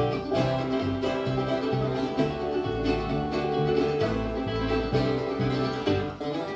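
Live bluegrass band playing an instrumental passage: banjo and guitar picking over low notes that step along about twice a second.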